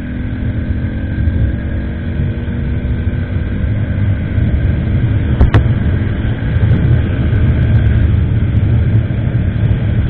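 Motorcycle on the move: the engine running steadily under a heavy low rumble of wind and road noise on the action camera's microphone. There is a single sharp click about five and a half seconds in.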